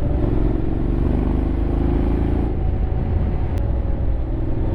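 Honda X-ADV 750's parallel-twin engine running while riding, over a steady low rumble of wind and road noise. A steady engine tone holds for the first half, then fades about two and a half seconds in.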